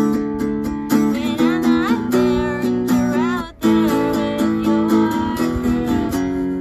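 Acoustic guitars strumming and picking chords in a live acoustic band performance. The playing breaks off abruptly about three and a half seconds in and comes straight back.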